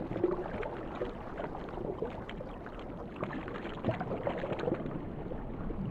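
Underwater water sound: a steady wash with many small clicks and short bubbling blips.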